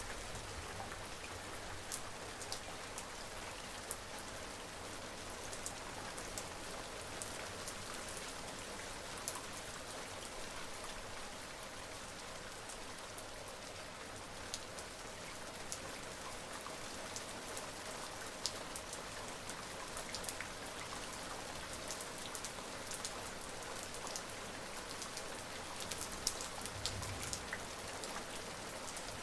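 Steady rain falling, with individual drops ticking sharply on a surface here and there.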